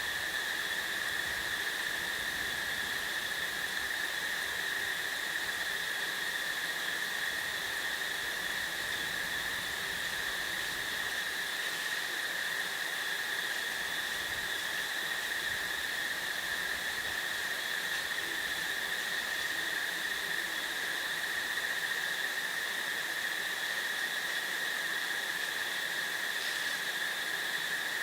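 A steady, unbroken chorus of insects calling together, a constant high pitch with a fainter higher overtone, over a soft background hiss.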